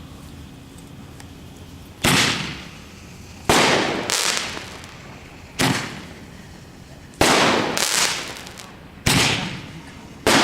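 Consumer fireworks going off in a series of sharp bangs, about six or seven roughly every one and a half to two seconds, each trailing off over about a second.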